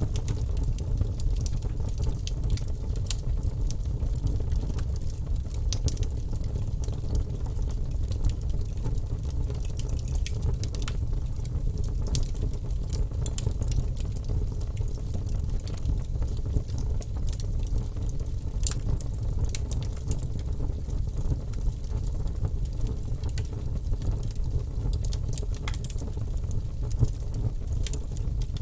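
Fire burning in a fireplace: a steady low rumble with frequent small crackles and pops scattered throughout.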